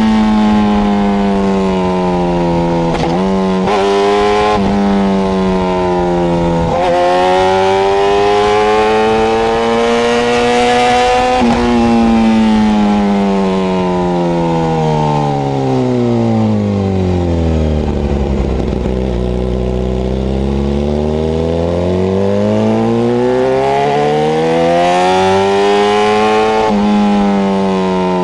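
Suzuki GSX-R sport bike engine being ridden, its revs falling and then jumping back up several times in the first half. The engine slows to low revs near the middle, then builds steadily under acceleration, with a sudden drop in pitch near the end as it shifts up a gear.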